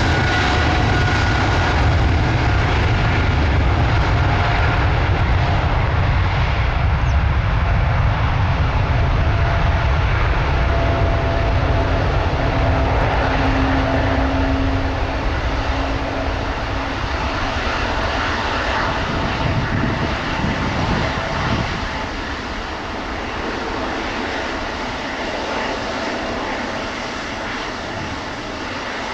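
Boeing 777-300 jet engines at takeoff power, a heavy low rumble that fades gradually in the second half as the airliner climbs away.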